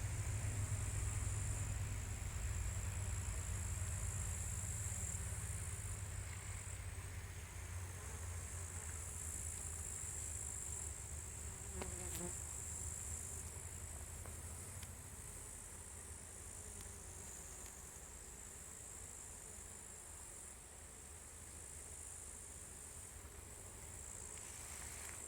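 Honeybees swarming a flowering linden tree, a steady low hum that slowly fades, with a steady high-pitched insect trill above it.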